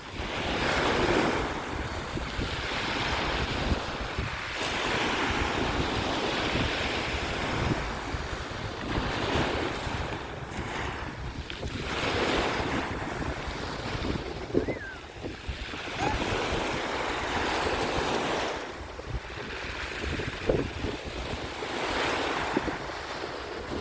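Sea waves breaking and washing up a beach, the surf swelling and fading every few seconds, with wind buffeting the microphone as a low rumble underneath.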